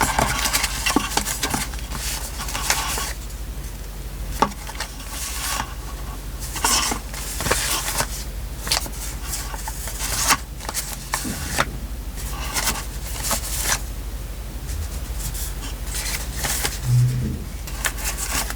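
Paper and stickers being handled for journal decorating: irregular crinkling, rustling and light clicks and taps, over a low steady hum, with a brief dull thud near the end.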